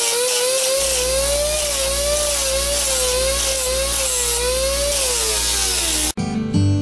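Air-powered grinder running off a small compressor: a high whine with heavy air hiss that wobbles up and down in pitch as it works the metal, then slows and falls away near the end. A low steady hum joins about a second in. Guitar music cuts in abruptly near the end.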